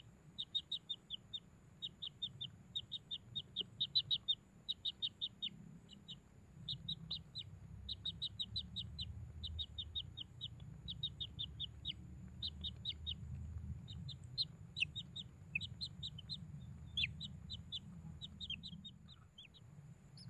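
A bird chirping in quick runs of short high notes, about five or six a second, run after run, over a faint steady high whine and a low rumble.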